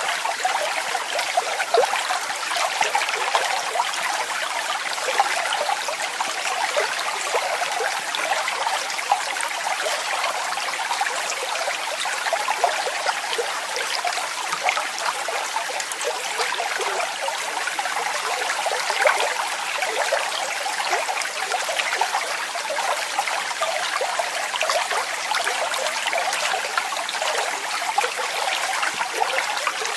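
Running water splashing steadily, a dense patter of many small splashes with no deep rumble, like a small waterfall or brook.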